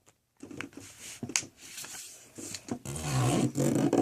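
A sheet of paper rustling and crackling as it is handled and creased into a fold, with irregular sharp crinkles. About three seconds in, a louder stretch with a low pitched layer joins the rustling.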